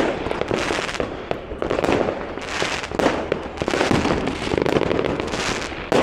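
Many fireworks and firecrackers going off at once: a dense, unbroken run of bangs and crackling, several blasts a second.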